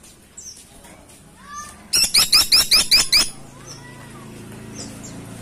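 Woodpecker calling: a fast, loud rattle of about eight sharp notes about two seconds in, with a few softer single chirps before and after.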